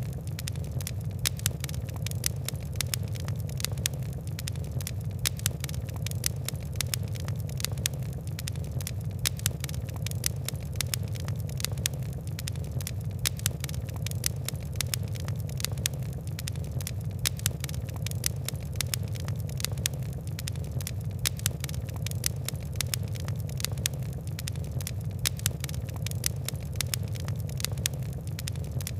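Wood and coal fire crackling: many quick, irregular pops and ticks over a steady low rumble.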